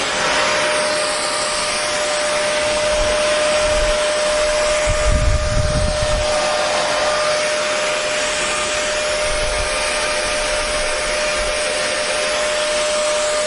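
Electric hair dryer running steadily: a continuous rush of air with a steady motor whine, and a brief low rumble about five seconds in.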